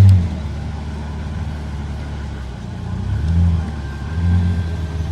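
Pagani Zonda HP Barchetta's V12 engine, a deep low running sound that swells loudly right at the start, settles, then swells briefly twice more near the end as it is revved.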